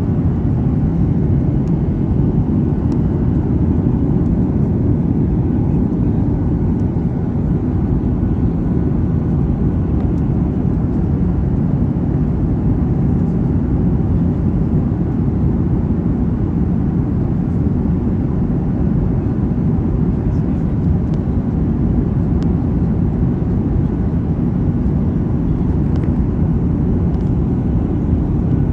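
Steady engine and airflow rumble of a jet airliner, heard from inside the passenger cabin.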